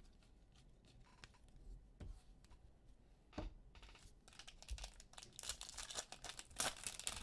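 Crinkling and tearing of a trading-card pack's foil wrapper, with a few faint clicks of card handling first and a dense, rapid crackle from about four seconds in.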